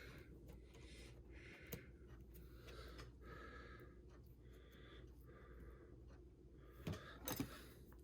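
Near silence: room tone with a few faint clicks, two of them close together near the end.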